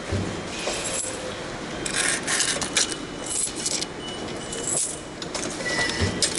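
Coins clinking and rattling as change is taken from a subway ticket machine's coin tray, in several short bursts over a steady station background hum.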